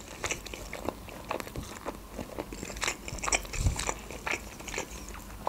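Close-up chewing of a mouthful of food with the mouth closed: soft, wet, irregular mouth clicks and smacks.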